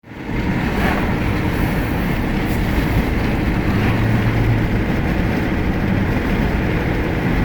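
Steady road and engine rumble of a car driving at speed, heard from inside its cabin.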